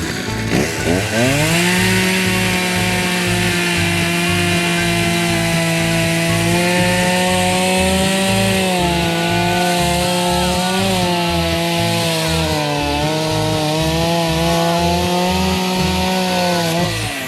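A power saw speeds up, runs steadily while cutting wood, its pitch sagging briefly under load midway, then winds down near the end. Background music with a steady beat plays underneath.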